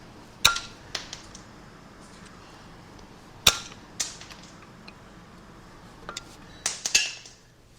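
Sharp metallic clinks of small engine parts being handled and set down, a few spread apart and a quick cluster near the end, some ringing briefly.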